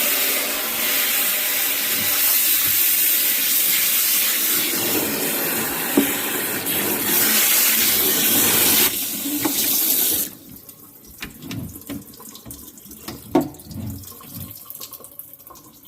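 Kitchen sink sprayer running, water spraying into a refrigerator drawer to flush out stuck food. It shuts off about ten seconds in, followed by a few light knocks and clunks.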